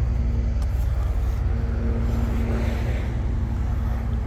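1998 Cadillac Eldorado Touring Coupe's Northstar 32-valve DOHC V8 idling steadily through its quad exhaust, a low, even rumble.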